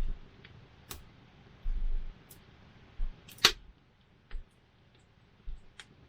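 Wood campfire crackling: scattered sharp pops and snaps over a faint hiss, the loudest pop about three and a half seconds in. A few brief low thumps come in between.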